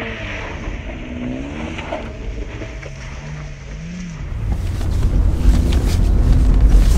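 Car engine revving, its pitch rising and falling. From about four seconds in, a much louder low rumble takes over.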